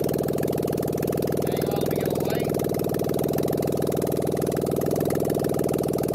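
Ford Escape engine idling with no exhaust manifold fitted, its exhaust pulses blowing straight out of the open ports in the cylinder head: a loud, rapid, even beat.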